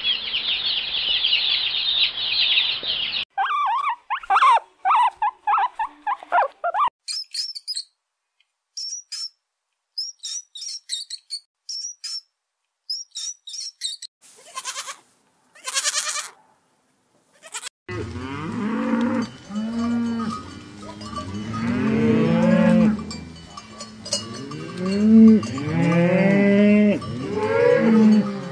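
A series of animal sounds. First, many ducklings peeping densely together. Then a few seconds of other calls and scattered short high chirps, and from about two-thirds of the way in, a herd of cattle and water buffalo lowing with many overlapping moos.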